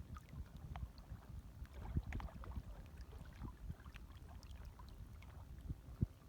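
Small, gentle waves lapping: a low, uneven watery rumble with scattered small splashes, and a sharper slap of water about two seconds in and again, louder, just before the end.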